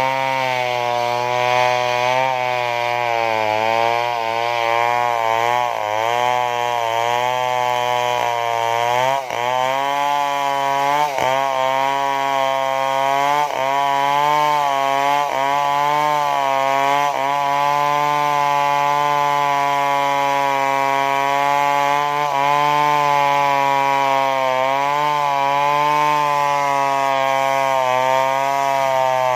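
Stihl chainsaw running at high revs while cutting into a large tree trunk. The engine note holds steady, with its pitch sagging and recovering several times in the middle.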